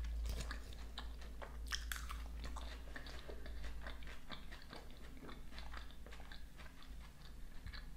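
Close-up chewing of a mouthful of vegetable salad: soft wet mouth clicks and small crunches, with a few sharper clicks about two seconds in.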